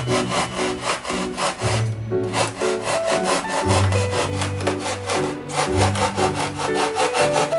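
Rapid back-and-forth sawing or cutting strokes, about five a second, rasping, with two short pauses, over background music.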